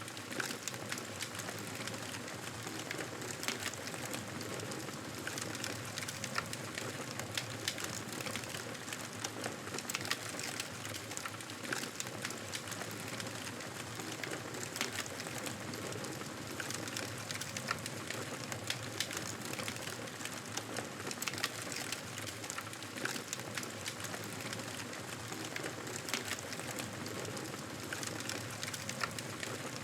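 Wood fire crackling in a fireplace: a steady hiss with many small, irregular pops throughout.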